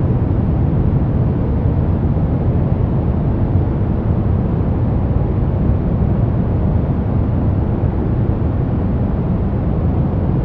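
Steady, unbroken noise from a relaxation noise track sold as white noise. It sounds deep rather than hissy, with most of its weight in the low end and little treble.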